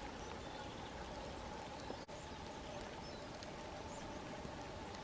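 Steady outdoor hiss with a few faint, distant bird chirps.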